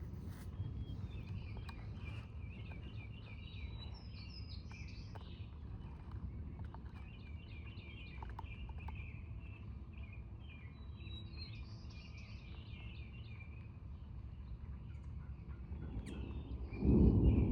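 Small birds chirping and twittering over a steady low background noise. Near the end, a loud clap of thunder breaks in suddenly and goes on rumbling.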